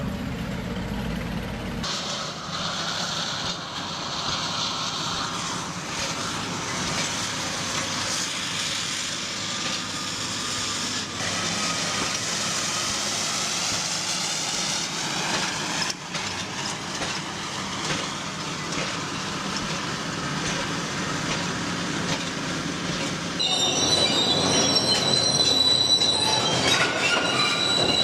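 Heavy machinery running with continuous metallic grinding and screeching noise. The sound changes abruptly about two seconds in and again near the end, where a high, steady squeal comes in.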